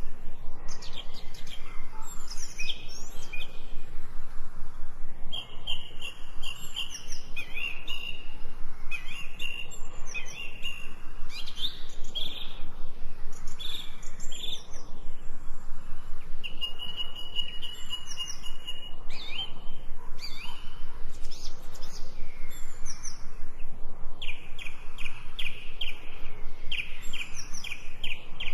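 Several birds singing and calling: runs of quick repeated chirps and short trills, one after another, over a steady hiss of falling rain.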